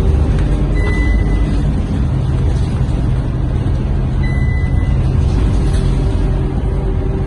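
Scania K230UB bus's diesel engine running steadily under way, heard from inside the cabin. Two short high beeps sound, one about a second in and another about four seconds in.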